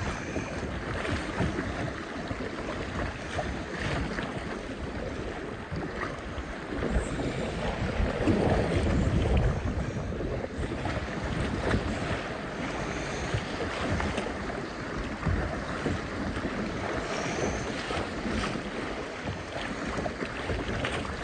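Rushing river water around a kayak, with irregular splashes from the paddle and hull and wind on the microphone. It grows louder for a couple of seconds midway.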